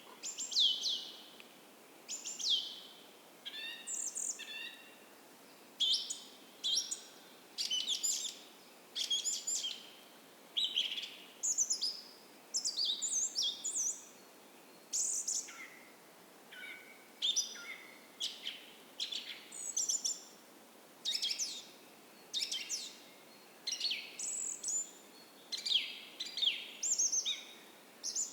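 Several songbirds singing in a dawn chorus: short, high chirps and trills that sweep down in pitch, coming every second or so, over a faint steady hiss.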